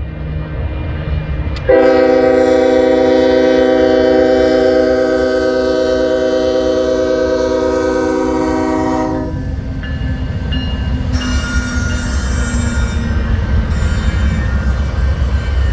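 Diesel freight locomotive's air horn sounding one long chord of several tones, about seven and a half seconds. It is followed by the low rumble of the train, with a faint high wheel squeal after it.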